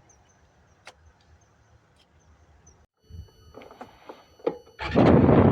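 Faint high chirping with a single click, then a few clicks and knocks before a motorcycle engine bursts loud near the end and settles into a steady low running.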